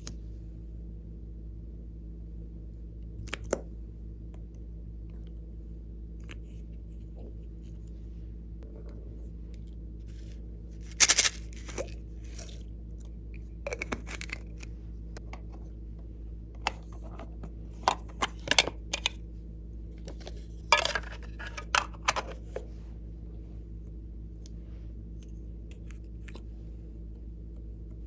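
Close-up handling sounds from slime-making: scattered sharp clicks and crackles in small clusters over a steady low hum, with the loudest cluster about eleven seconds in.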